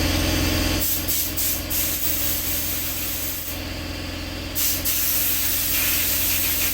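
Compressed air hissing from a blow gun through a used car radiator, first in a few short blasts and then in longer ones, to clear out whatever old fluid was left inside. A steady low hum runs underneath.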